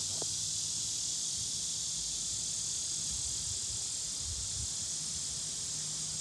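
A steady, unbroken high-pitched insect chorus buzzing in summer woods.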